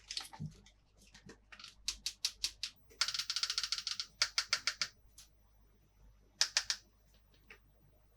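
Quick runs of small, sharp clicks and taps from plastic toy pieces being handled. About three seconds in comes a fast rattling run lasting about a second.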